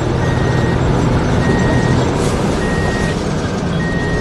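Heavy construction machine's reversing alarm beeping four times, evenly spaced, over the steady hum of its engine.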